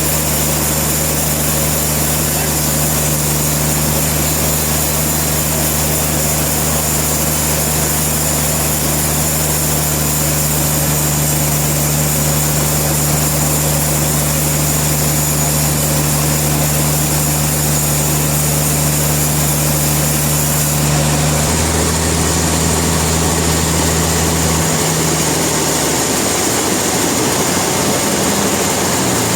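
Sawmill machinery running with a steady low hum and a faint high whine. The note changes about 21 seconds in and falls away over the last few seconds.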